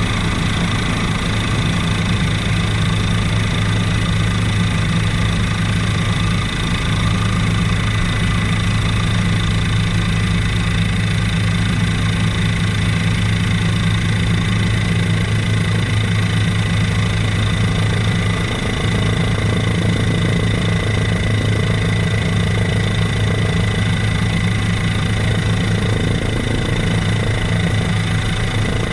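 Helicopter cabin noise in steady flight: an unbroken drone from the engine and rotor, with a deep steady hum and a thin high whine over it.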